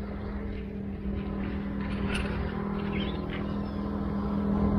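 A motor engine's steady hum, growing louder as it draws nearer, with a couple of brief faint chirps about halfway through.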